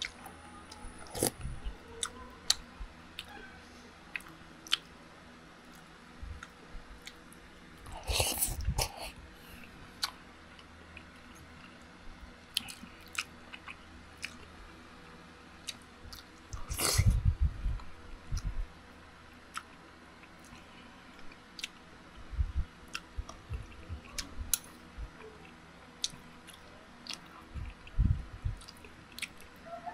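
Close-up eating sounds: a person chewing spoonfuls of chicken soup with rice, with scattered sharp clicks of a metal spoon against the ceramic plate. Louder bursts of chewing come about eight seconds in, around the middle and near the end.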